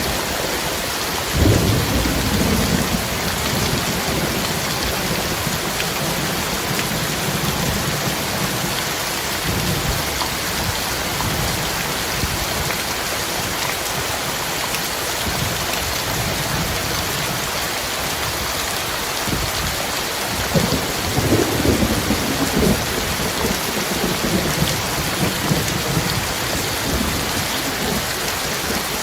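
Heavy rain falling steadily, with two rolls of thunder: one breaking sharply about a second and a half in, and a longer rumble about twenty seconds in.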